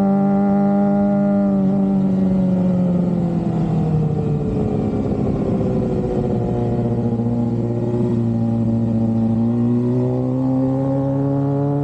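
Suzuki GSX-R750 sportbike's inline-four engine under way: the engine note falls steadily as the bike comes off the throttle, holds low for a few seconds, then climbs again near the end as it accelerates.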